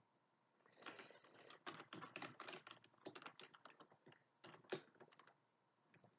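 Computer keyboard typing: a quick, faint run of keystrokes starting about a second in and stopping about a second before the end.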